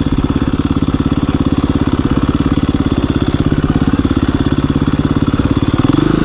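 KTM 350 EXC-F single-cylinder four-stroke dirt bike engine running steadily at low revs with an even, fast firing pulse, then revving up briefly and dropping back near the end.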